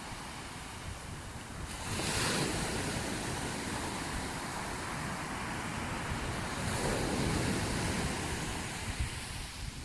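Sea waves washing in, with two swells of surf about two seconds and about seven seconds in, over wind rumbling on the microphone.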